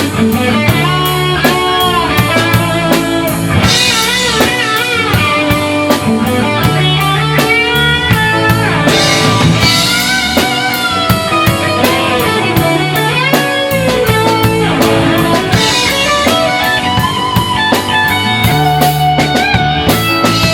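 A rock band playing an instrumental passage between sung lines: electric guitar over bass and drum kit, with a steady beat and a bending melodic line on top.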